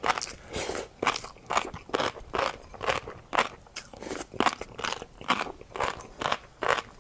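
Close-miked chewing of tobiko with a crunchy seafood topping: a steady run of wet crunches, about two a second.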